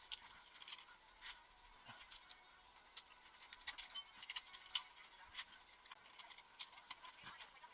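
Faint, irregular clicks and taps of hand tools on metal, with a small flurry of clicks near the middle, as the cylinder head bolts of a Honda F23A engine are tightened.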